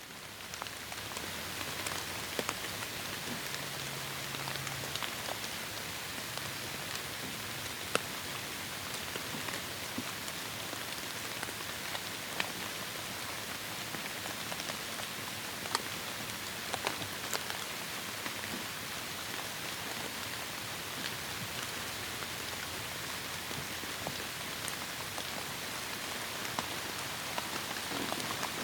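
Heavy rain falling steadily, with scattered single drops ticking sharply close by; it fades in over about the first second.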